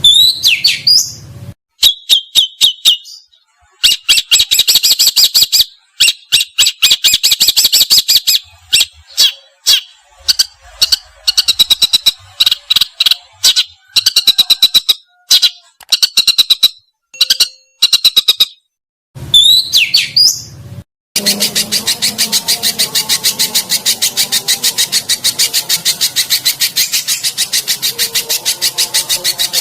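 Songbird calls from a bird-training recording: sharp swooping whistles, bursts of rapid clicking notes, then a long fast rattling trill in the last third.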